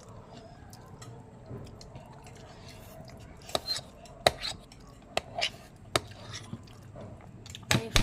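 Eating sounds: scattered short clinks and taps of cutlery on dishes, with chewing. The first few seconds are quiet; the clicks come from about three seconds in, several in quick succession near the end.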